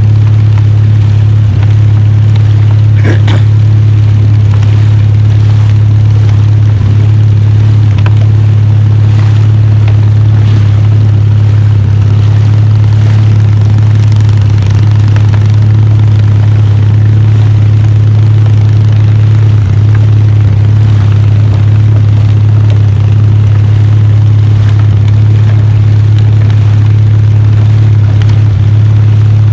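Small fishing boat's engine running steadily close by, a loud constant low hum, with a sharp click about three seconds in.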